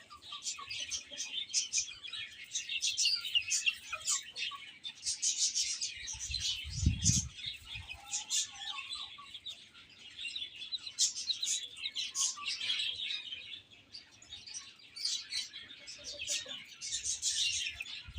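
A group of baby chicks peeping continuously in many rapid, high-pitched chirps. A brief low thump sounds about seven seconds in.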